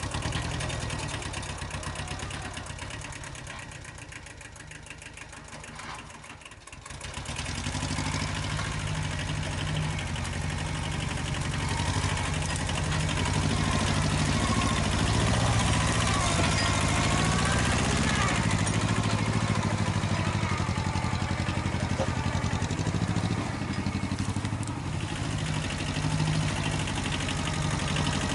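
Kubota L175 compact tractor's two-cylinder diesel engine running low at first, then picking up about seven seconds in and running steadily louder under load as the tractor drags a heavy fir log.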